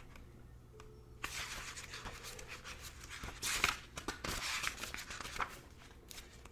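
Paper rustling and rubbing as the pages of an oracle-card guidebook are leafed through, in irregular brushes with one louder rustle a little past halfway.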